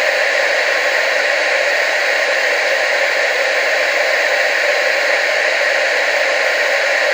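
Television static: a steady, unbroken hiss, strongest in the upper-middle range with little bass.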